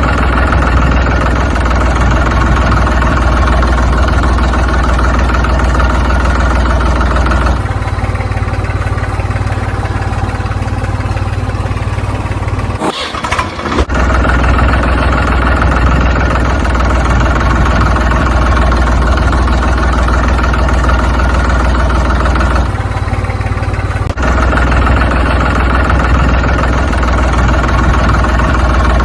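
An engine running steadily at idle. Twice it shifts for a few seconds to a thinner, lower-pitched running sound, and it cuts out briefly once in between.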